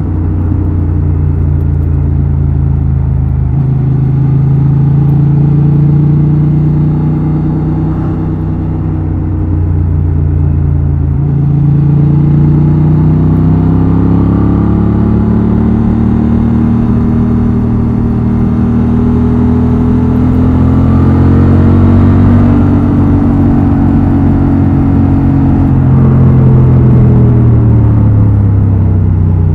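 Honda Transalp XL750's 755 cc parallel-twin engine and exhaust running under way. The engine note steps with a couple of gear changes, climbs in revs through the middle, and eases off near the end.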